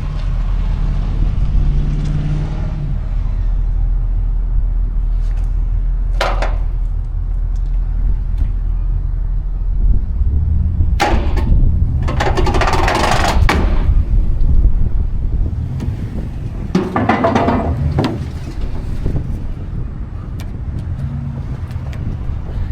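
Vehicles moving slowly under tow: a steady low engine and road rumble, with brief louder rushes of noise about six seconds in, around eleven to thirteen seconds, and again around seventeen seconds.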